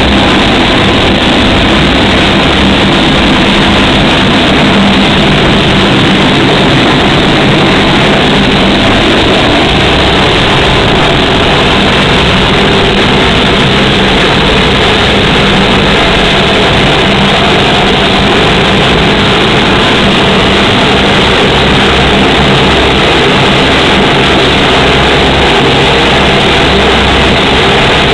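Lockheed P-3C Orion's four Allison T56 turboprop engines running, a loud, steady engine-and-propeller drone with a low hum.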